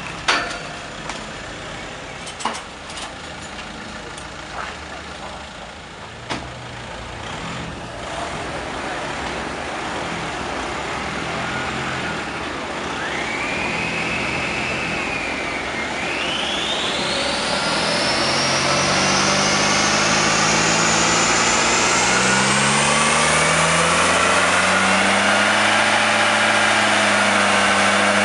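Volkswagen Passat estate running on a rolling-road dynamometer: the engine idles at first with a few sharp clicks, then the car is driven up through the gears, a whine climbing in pitch with a brief dip midway, and the engine note stepping up in several stages before settling loud and steady at higher road speed.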